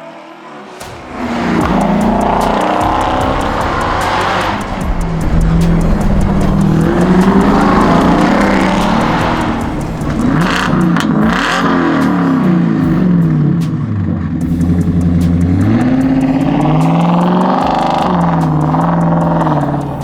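A Ford F-150 Raptor R's supercharged 5.2-litre V8 running through a Milltek performance exhaust (H-pipe, smaller resonator, dual valves). It comes in loud about a second in and then revs and accelerates, its pitch climbing and dropping again several times.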